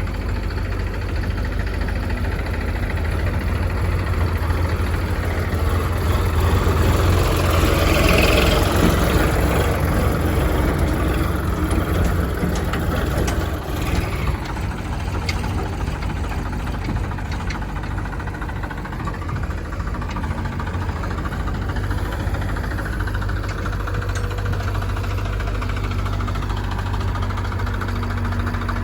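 Heavy diesel engine of the tractor and loader running steadily with a deep rumble. It swells louder about six to ten seconds in, then settles back.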